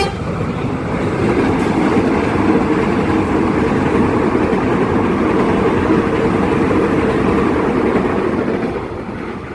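Train rumbling along the rails, a steady loud clatter of wheels and running gear that swells about a second in and eases off near the end.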